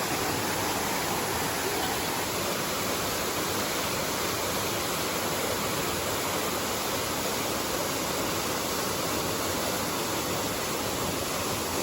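Emerald Pool waterfall pouring steadily: a constant, even rush of falling water.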